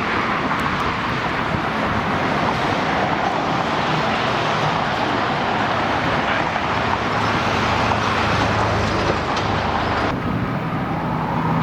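Emergency siren wailing with slow glides in pitch, one rising near the end, over a steady rush of traffic noise.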